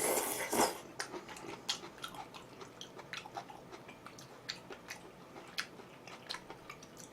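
A person chewing a mouthful of food: a louder noisy sound in the first half-second, then a run of small wet clicks and smacks of chewing.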